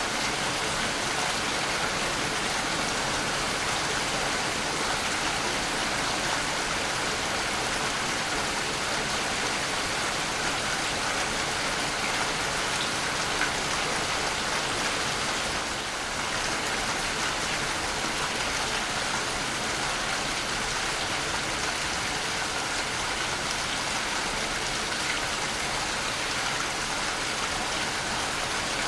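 Waterfall: a steady, unbroken rush of falling and splashing water, an even hiss without pauses.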